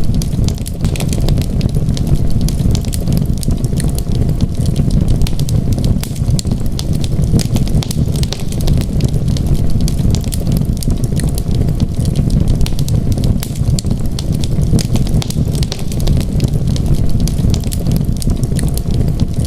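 Wood fire crackling in a fireplace: many small sharp pops and snaps, irregular and frequent, over a steady low rumble of flames.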